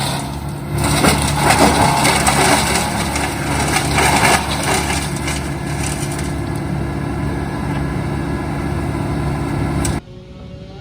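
Wood chipper running very loud, chewing cut tree branches into mulch: crunching and splintering over the steady hum of its engine, heaviest in the first half. The sound drops away suddenly near the end.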